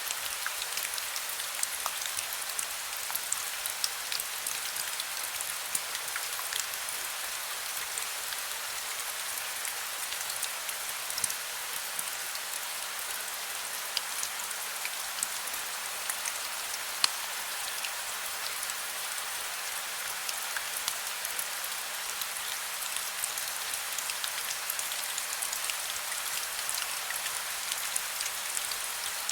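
Heavy rain falling steadily, a dense even hiss with many individual drop hits heard as sharp little ticks throughout.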